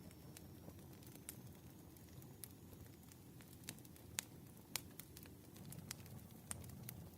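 Firewood burning: faint, irregular crackles and sharp pops over a soft low rumble of the fire. Two pops a little past the middle are the loudest.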